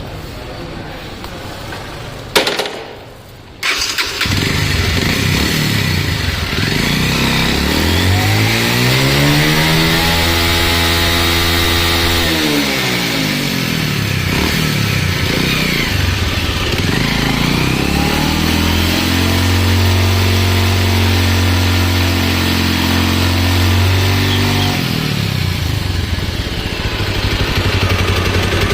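Bajaj Pulsar single-cylinder motorcycle engine starting with a click and catching about four seconds in. It is then revved up and back down once, and later held at high revs for several seconds before dropping back.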